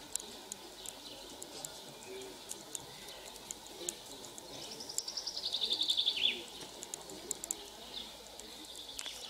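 A songbird sings one fast trill of rapidly repeated high notes, about a second and a half long, that drops in pitch at the end, midway through. Scattered short chirps are heard around it.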